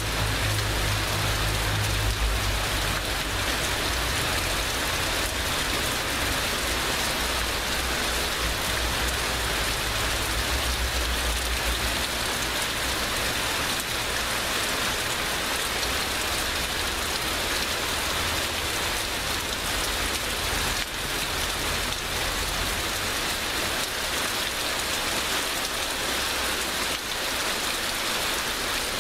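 Heavy rain pouring steadily, a dense even hiss of drops on surfaces. A low rumble sits underneath, stronger in the first half.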